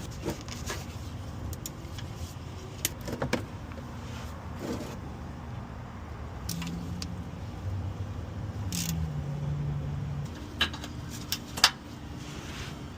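Scattered sharp clicks and snaps of plastic retaining clips being pried out of a car's underbody splash shield to reach the oil drain plug. A low steady hum joins about halfway through.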